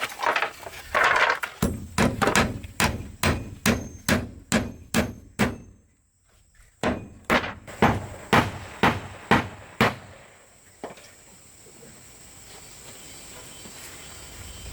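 Rapid hammer blows, about two or three a second, in two runs of several seconds with a short pause between. They stop about ten seconds in.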